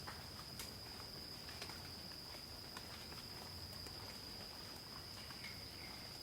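Night forest insect chorus: crickets keep up one unbroken, high-pitched steady trill. Faint scattered clicks and ticks sound throughout, and a couple of short, faint calls come near the end.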